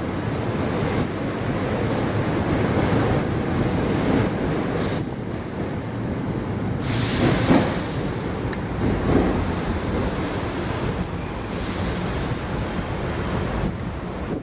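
SEPTA commuter train running over the tracks: a steady rumble of wheels and cars, with a few brief high wheel squeals and a loud rush of noise about seven seconds in.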